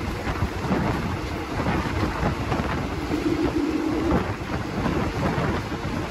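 Continuous rumble and rushing noise of a moving passenger train heard from on board, with a short steady tone around the middle.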